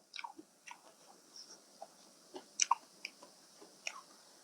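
Chewing: scattered short wet mouth clicks and smacks of someone eating khao pun rice noodles in canned-fish curry sauce, with a louder pair of clicks a little past halfway.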